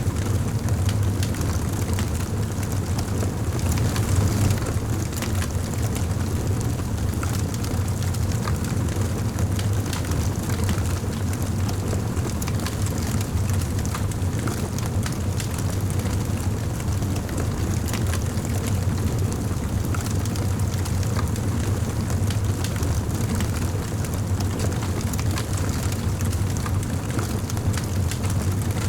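Wood fire burning in a fireplace, crackling with frequent small pops over a steady low rumble.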